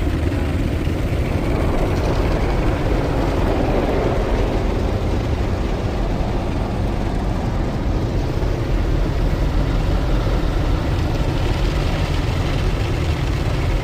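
WashTec SoftLine 2 car wash tunnel at work, its rotating side brushes and water spray going over the car in a steady rumbling wash noise.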